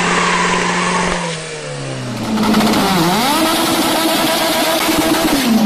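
Car engine revving hard: the revs are held steady, drop about a second in, climb again, dip once about three seconds in, then are held high before falling away near the end.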